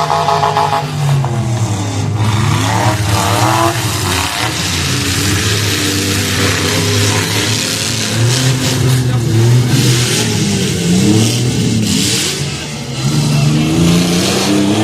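Several car engines revving up and down at once as derby cars drive and ram each other, with scattered short bangs.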